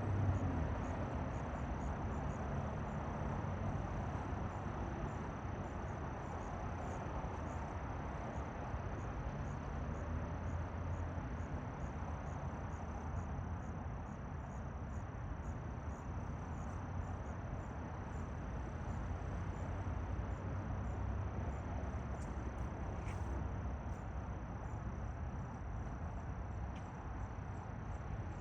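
Outdoor ambience: a steady low rumble under a continuous, even, high-pitched insect trill.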